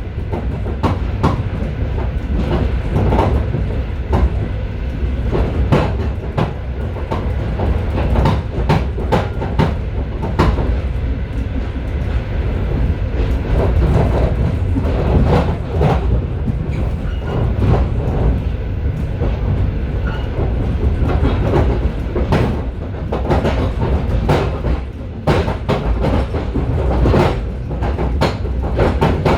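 Passenger train running, heard from inside a car's vestibule: a steady low rumble of wheels on rail, broken by frequent irregular sharp clicks and knocks as the wheels cross rail joints and switches.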